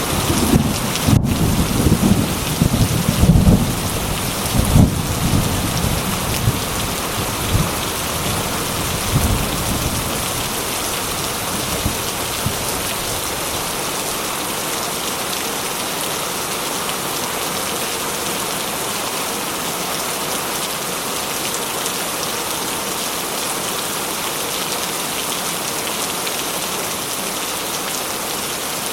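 Heavy rain falling steadily on a corrugated metal roof. Thunder rumbles, with a few sharp cracks, through roughly the first ten seconds and then dies away, leaving only the rain.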